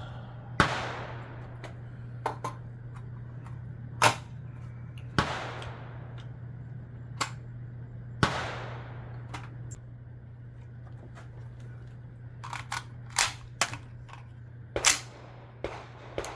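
Suppressed 5.56 rifle shots through a B&T VERS36 titanium suppressor: four loud reports, each with a short echoing tail, in the first eight seconds, then a string of quieter, sharper cracks and pops near the end. A steady low hum runs underneath.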